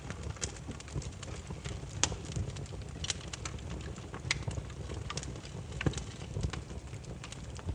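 Burning firewood crackling, with irregular sharp pops, a few each second, over a low steady rumble.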